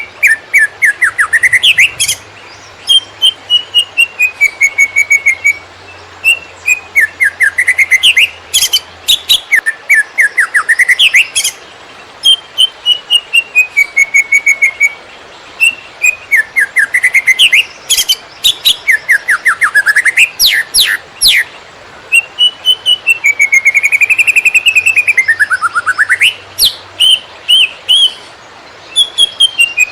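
Cucak ijo (green leafbird) singing in the rapid 'konslet' style: loud whistled phrases that slide up and down, mixed with fast strings of sharp chattering notes, repeated in bursts of a few seconds with short pauses.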